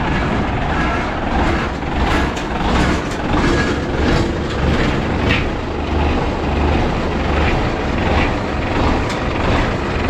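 A 1978 International S2600 semi truck's 290 Cummins Big Cam inline-six diesel idling with a steady, rough low rumble.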